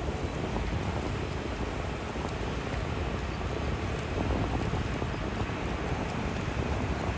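River ferry underway, a steady low rumble and hiss with wind buffeting the microphone.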